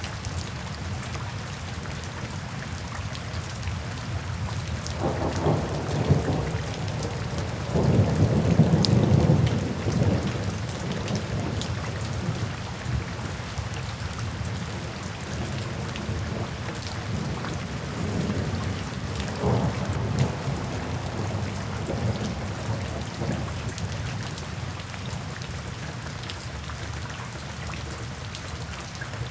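Steady rain drumming on a tin roof, with low rolls of thunder rumbling through it, the loudest about eight seconds in and another around twenty seconds.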